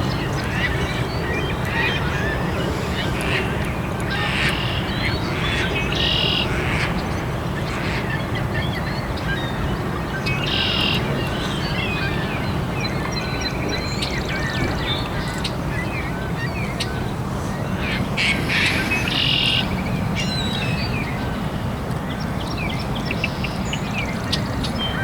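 Many birds calling and chirping, with short repeated calls scattered throughout, over a steady low background rumble.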